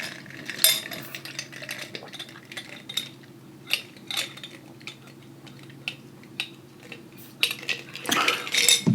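Light clinks and clicks of a utensil against a dish, scattered irregularly, over a steady low hum; a louder, busier stretch of noise near the end.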